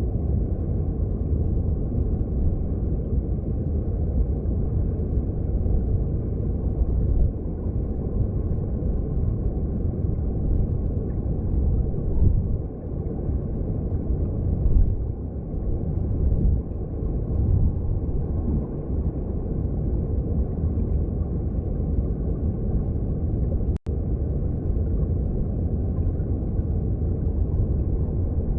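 Underwater sound of a mountain stream: a steady low rumble of rushing water heard beneath the surface, broken by a split-second gap about 24 seconds in.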